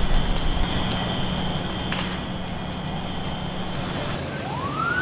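An emergency vehicle siren begins to wail near the end, its pitch sweeping upward. Before that, a steady high tone sounds over a broad rushing noise and a low hum.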